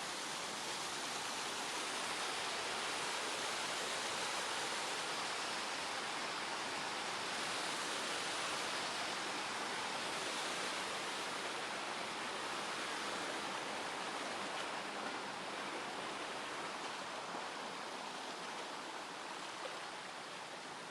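Steady rushing of a mountain stream's flowing water, a dense even hiss that swells a little midway and eases slightly near the end.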